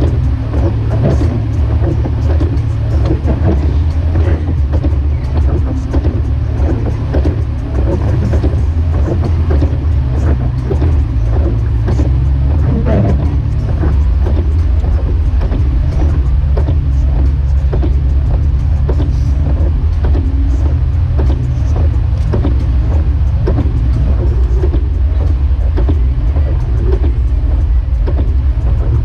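Jeep Wrangler YJ driving, with a steady low engine and road drone and a rough rumble of the tyres throughout.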